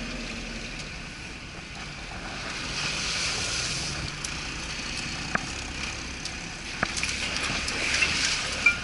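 Off-road vehicle driving along a rough track: steady road and engine noise, with a few sharp knocks and rattles in the second half.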